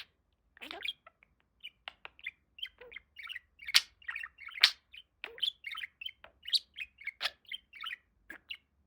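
Pet budgerigar chattering: a fast run of short chirps and warbles, with two louder, sharper chirps about four and five seconds in.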